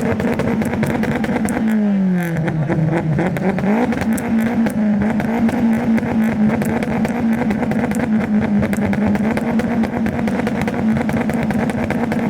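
Modified car's engine held at high revs for several seconds, with a steady note that dips about two seconds in and climbs back. Rapid crackling from the exhaust runs through it.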